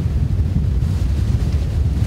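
Strong wind buffeting the microphone in a steady low rumble, over the wash of breaking surf.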